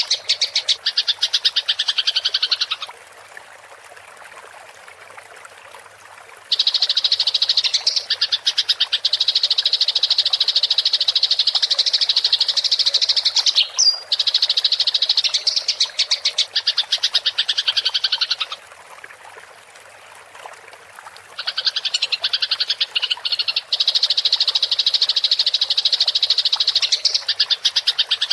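Eurasian tree sparrows (burung gereja) giving long, rapid, high chattering trills in the aggressive 'ngerol' song of fighting birds, each bout running for several seconds. Twice the trilling stops for about three seconds, leaving a soft, steady trickle of water.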